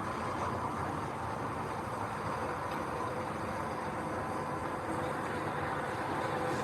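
Heavy diesel machinery engine running steadily, an even mechanical hum with no changes in pitch.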